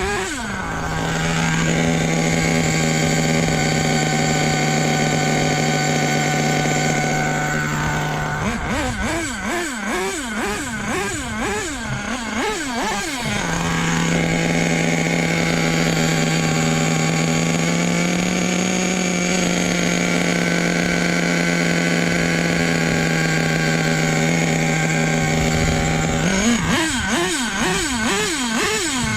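Small nitro glow engine of an RC truck running at a steady pitch, broken twice by stretches of quick revving up and down, the first about eight seconds in and the second near the end.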